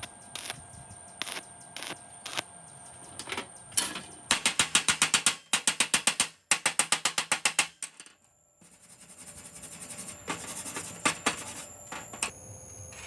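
Clicking of a small mechanism. Scattered single clicks give way about four seconds in to three bursts of fast, even clicking, about ten a second. After a short pause there are more clicks near the end.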